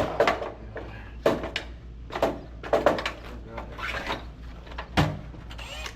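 Irregular knocks and clunks, roughly one a second, over a low steady hum.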